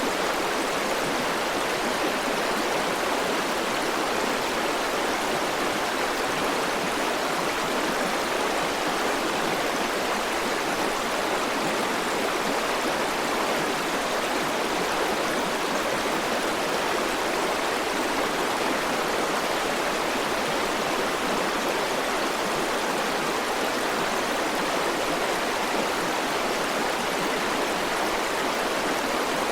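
River water flowing over rocks: a steady, even rushing with no changes or separate events.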